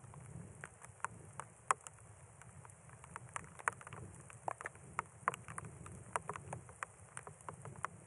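Light rain: scattered raindrops ticking irregularly on nearby surfaces, a few a second, over a low steady wind rumble.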